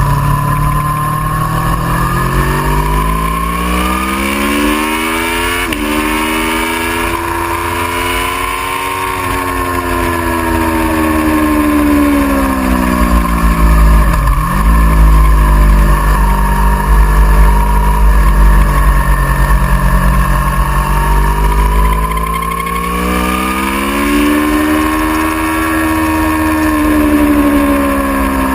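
Aprilia Tuono V4R's V4 engine at speed on track, its pitch climbing slowly through the revs for several seconds, falling away, dropping sharply about halfway through, then climbing and falling again, over a constant low rumble.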